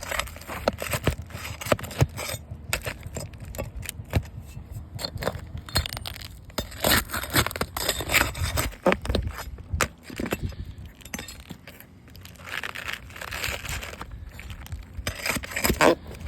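Irregular scraping with many sharp clicks, knocks and clinks of hard objects being handled.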